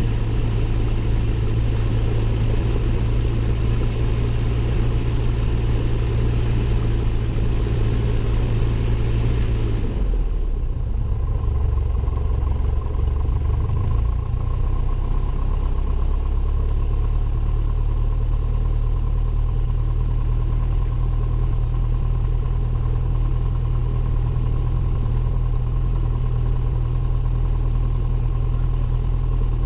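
Cessna 172N's four-cylinder Lycoming piston engine and propeller droning steadily, heard from inside the cockpit. About ten seconds in the sound changes abruptly: the hiss above drops away and the low drone wavers for a few seconds before settling steady again.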